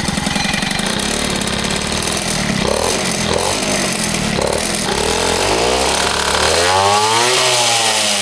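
Peugeot 103 moped's single-cylinder two-stroke engine, built to 65cc, running and being revved: short throttle blips midway, then a longer rev that rises and falls near the end.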